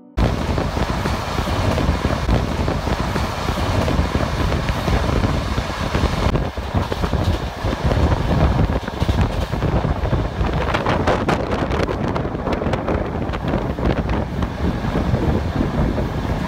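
Passenger train running along the track, heard with heavy wind noise on the microphone, and a spell of sharp crackling about two-thirds of the way in.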